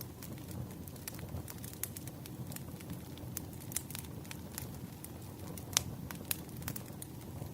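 Wood fire crackling: irregular sharp pops and snaps over a low, steady rumble of burning logs, with one louder pop about six seconds in.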